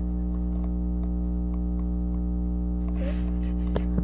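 Steady electrical hum with many overtones, unchanging throughout, with a short hiss about three seconds in and a couple of faint clicks near the end.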